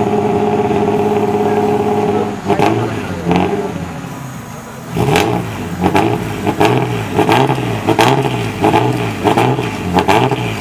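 Car engine held at steady high revs, dropping away about two seconds in; after a short lull it is blipped over and over, about one and a half revs a second, each with a sharp crack.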